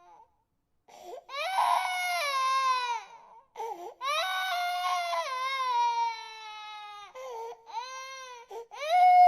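A baby crying hard in long, wailing cries that fall in pitch, with brief gasps for breath between them. It starts after a second of silence, and a loudest cry comes near the end.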